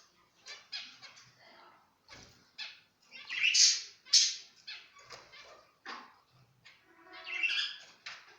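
Zebra finches calling: a string of short, irregular calls, with the loudest a pair about three and a half to four seconds in and another near the end.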